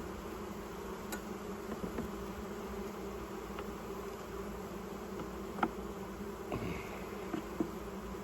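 Honey bees buzzing in a steady drone around an open hive, with a few brief light clicks.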